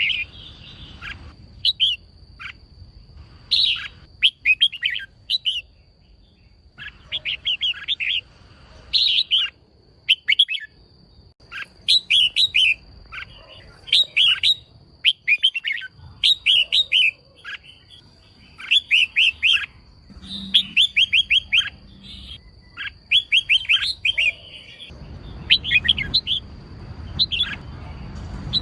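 Female red-whiskered bulbul calling: short bursts of rapid, chattering notes, repeated every second or two. These are the calls used to provoke male bulbuls into singing.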